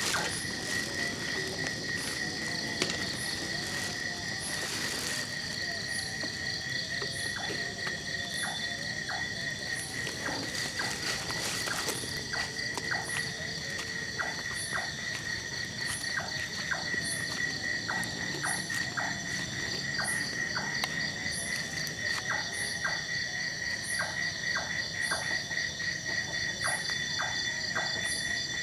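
Night insect chorus: crickets trilling steadily at a high pitch, layered with a very high chirp repeating about once a second and a run of short clicking calls a couple of times a second.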